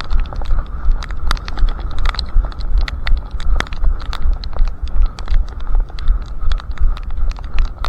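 A runner's footsteps at a steady cadence of about three strides a second, over a low rumble of wind and body movement on a head-mounted camera, with scattered sharp ticks throughout.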